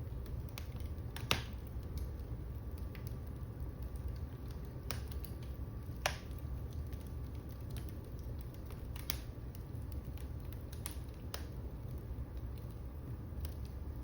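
Wood fire crackling in a fireplace: irregular sharp pops over a steady low rumble, the loudest pop about six seconds in.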